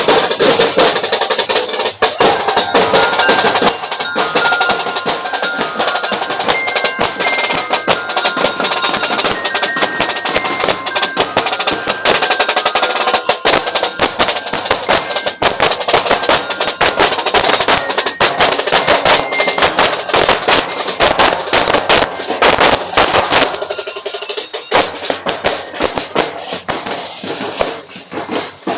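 Street-dance percussion band playing: fast, dense drumming with snare rolls and sharp wood-block-like clicks. For much of the time a melody of short high notes rides over the drums.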